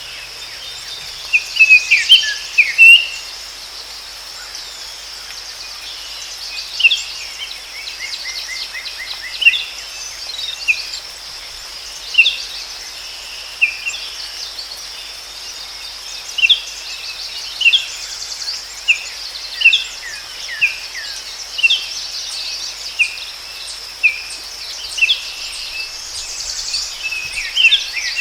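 Forest birds calling with short, sharp chirps every second or so and a few quick trills, over a steady high insect drone.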